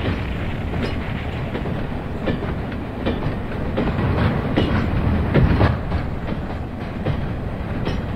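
Train running along the rails: a steady rumble with irregular clacks of the wheels over the track.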